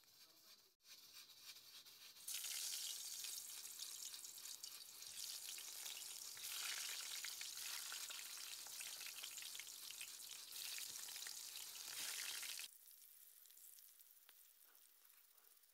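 Eggplant slices frying in hot oil in a stainless steel pot, a dense high sizzle. It starts about two seconds in, gets louder partway through, and drops sharply to a faint sizzle near the end.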